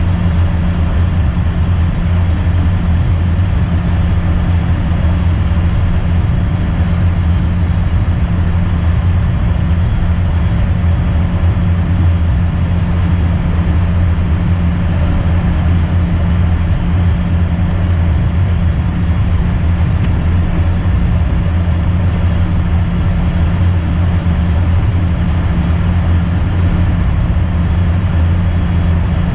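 Steady cockpit noise of an Embraer Phenom business jet: the drone of the turbofan engines and airflow, with a constant low hum and no change in level.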